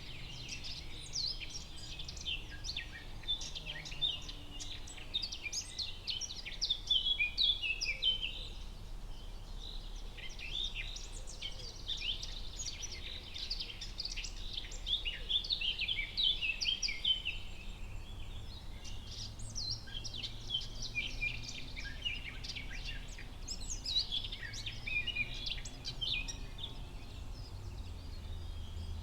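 Forest ambience: many songbirds chirping and trilling at once, dense high-pitched twittering that thins briefly in places, over a steady low background rumble.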